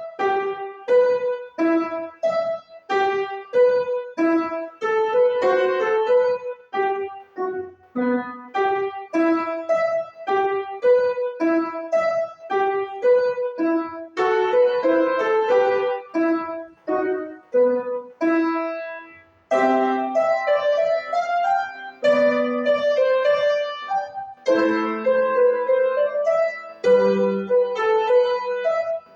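Solo piano playing a simple piece of short, separate notes in the middle register, about two a second. After a brief break a little past the middle, longer held notes and lower bass notes come in.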